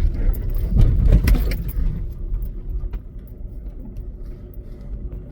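Volkswagen Golf driving, a low rumble of engine and road noise with knocks and rattles for the first two seconds, then settling to a steadier rumble.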